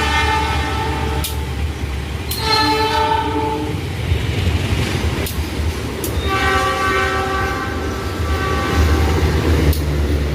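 Locomotive horn of the Lodaya passenger train sounding three blasts in a chord of several tones, over the steady rumble of the train running fast. A few sharp clicks fall between the blasts.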